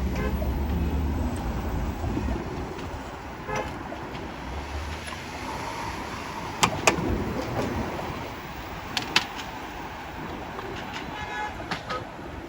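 Street traffic and road noise heard from a moving two-wheeler, a steady rushing haze. A few sharp clicks come around the middle, and short pitched tones like horn toots come a few seconds in and again near the end.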